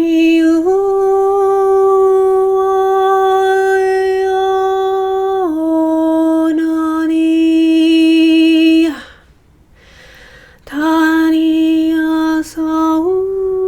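A woman's voice toning long wordless held notes, stepping between two pitches, each note held for several seconds, with a breath in a gap about two-thirds of the way through.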